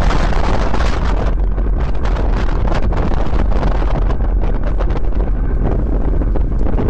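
Wind buffeting the microphone of a camera riding along on a moving bicycle: a loud, steady rumble of noise, heaviest in the deep low end.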